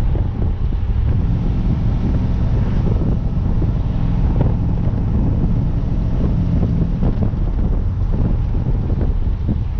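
The Dodge Ram's 410 cubic inch Magnum stroker V8 running steadily as the truck drives, a low engine and exhaust drone with wind buffeting the microphone.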